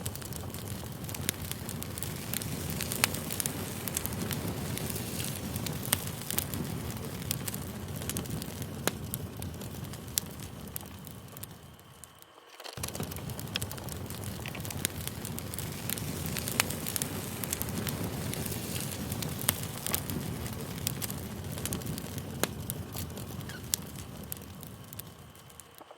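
Campfire burning, a steady hiss of flames with frequent sharp crackles and pops. It fades down briefly about halfway through and comes back up.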